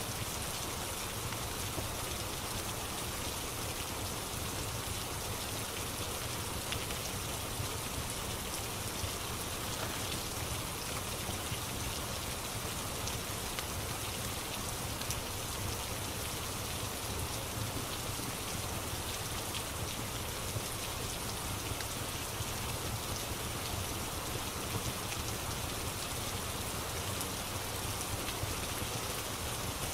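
Steady rain ambience, an even hiss with small scattered ticks.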